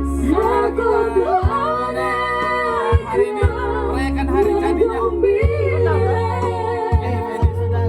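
A solo voice singing a song over instrumental backing music with a steady low bass.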